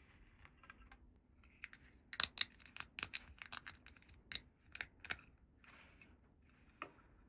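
Small hard plastic toy pieces being handled, a run of sharp clicks and taps clustered in the middle, with faint rustling before them.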